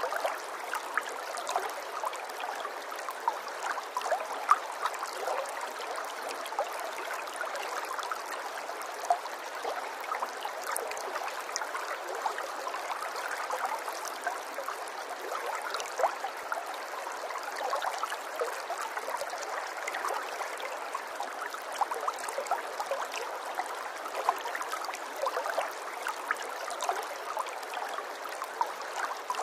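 Running water trickling and gurgling steadily, with many small splashes and drips scattered through it.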